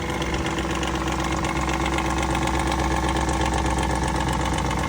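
Lexus 460's 4.6-litre V8 idling with a fast clattering tick. The rattle comes from the left intake cam sprocket and the tapping from the valve lifters, which the mechanic traces as the cause of the noise on cold starts.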